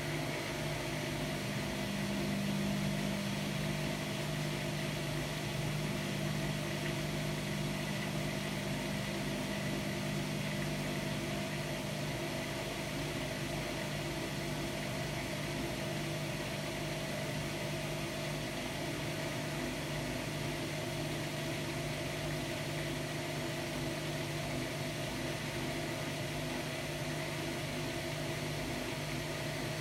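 Hotpoint-Ariston Aqualtis washer-dryer running steadily: an even machine hum with a low drone and a faint high whine, holding steady throughout.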